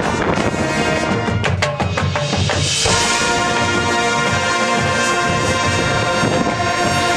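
High school marching band playing, brass with percussion: a run of sharp drum hits in the first few seconds, then a long held brass chord from about three seconds in. Wind buffets the microphone underneath with a low rumble.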